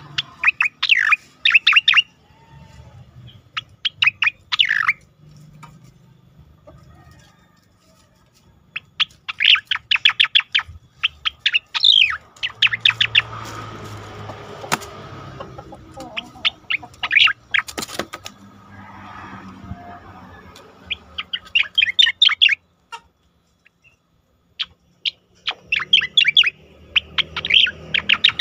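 Cucak koreng (pied triller) singing its rolling song: repeated bursts of rapid, sharp whistled notes, each burst lasting a second or two, separated by short pauses. A faint low hum runs underneath.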